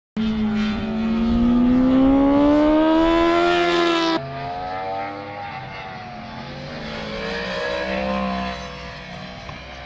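Inline four-cylinder superbike engine accelerating hard, its note climbing steadily for about four seconds. It then cuts off abruptly to a lower engine note that rises and falls.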